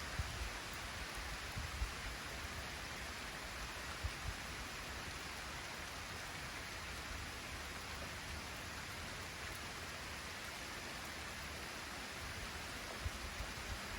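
Light rain falling in a steady hiss, with wind. A few brief low gusts come through, growing more frequent near the end.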